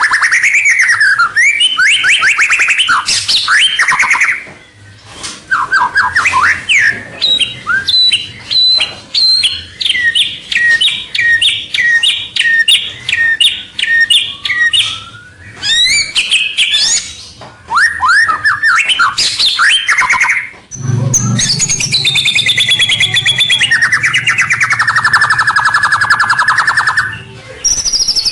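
White-rumped shama singing a loud, varied song without pause: quick whistled phrases sliding up and down, a long run of evenly repeated notes midway, and a harsh buzzy passage near the end.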